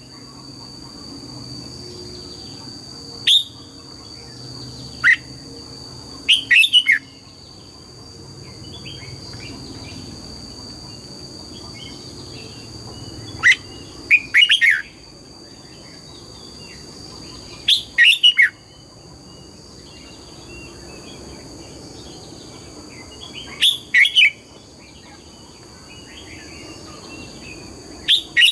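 Red-whiskered bulbul singing short, loud phrases of quick falling whistled notes, about eight phrases a few seconds apart, over a steady high-pitched whine.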